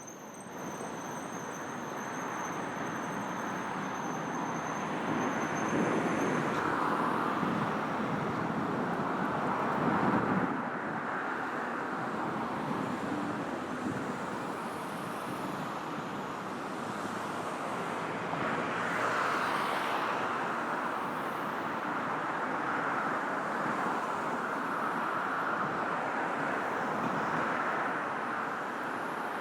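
Continuous road traffic on a busy multi-lane city road: cars and other vehicles passing with tyre and engine noise, swelling several times as vehicles go by close. A faint high-pitched whine runs through the first six seconds and then stops.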